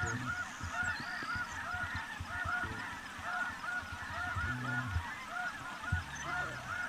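Snow geese honking, a dense chorus of many overlapping high calls, with low rumbling and a few knocks underneath.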